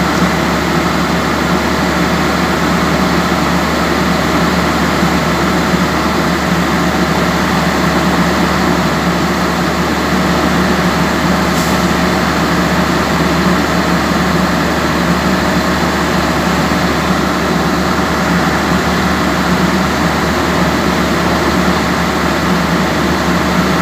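Diesel generator sets in a passenger train's generator-baggage car (power car) running steadily at constant speed. It is a loud, even, low engine drone with a steady hum over it.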